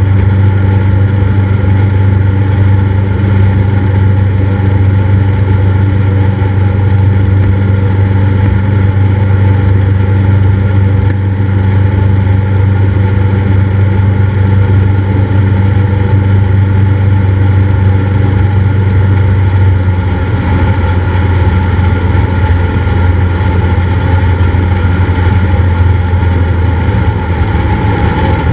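Cessna 172's piston engine and propeller droning steadily, with a slight shift in its tone about twenty seconds in.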